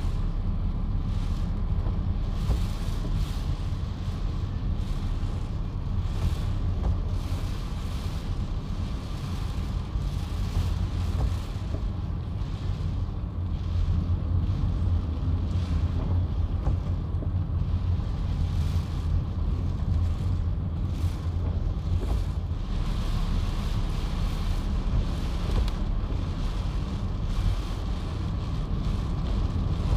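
Strong coastal wind buffeting the microphone with a heavy, steady rumble, under a rushing hiss of heavy rain and surf that rises and falls.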